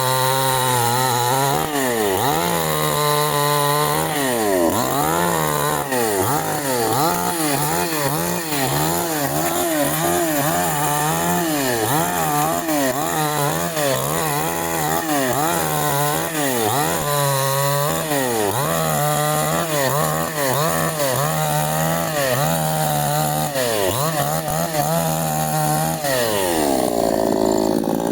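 Canfly 5800 two-stroke petrol chainsaw cutting wood, its engine speed dropping under load and climbing back again every second or two, with a deeper dip and recovery near the end.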